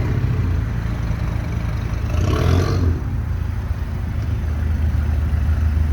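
Car engines running at idle, a steady low hum. About two seconds in, a louder engine sound swells for roughly a second and fades, like a car revving or moving past.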